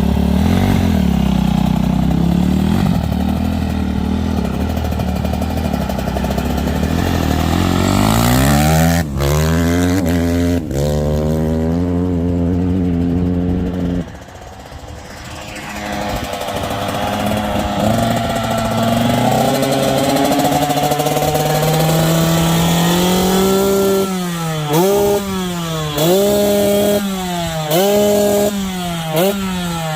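Dirt bike engines on a motocross track. An engine runs steadily, revs up and pulls away about eight to eleven seconds in, then an engine climbs in pitch from about sixteen seconds in. Near the end the throttle is blipped about once a second, each rev rising and falling sharply.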